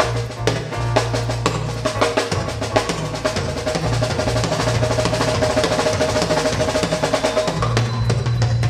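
Live band playing an instrumental passage: drum kit with dense, rapid snare strokes over a steady bass line, and a held note through the middle of it.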